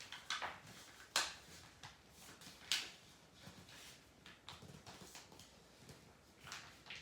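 Sheet of paper being folded and creased by hand: soft, scattered crinkles, with two sharper crackles about a second and nearly three seconds in.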